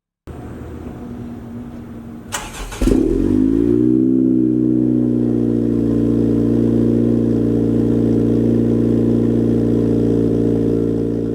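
A 10th-gen Honda Civic Si's turbocharged 1.5-litre four-cylinder starting through an AWE Touring cat-back exhaust: a brief crank about two and a half seconds in, then it catches with a flare of revs that falls away over a couple of seconds and settles into a loud, steady idle.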